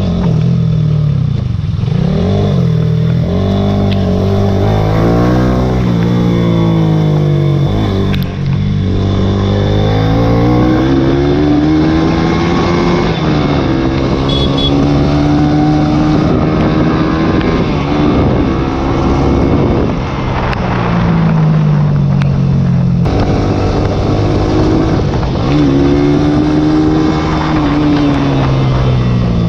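Small sport motorcycle engine being ridden hard, revving up and dropping back again and again as it is run through the gears, with short breaks in the sound at the shifts.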